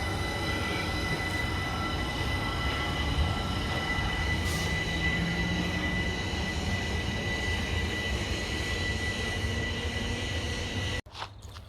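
Class 377 Electrostar electric multiple unit pulling out, running with a steady high whine over the noise of its wheels. The sound cuts off suddenly near the end.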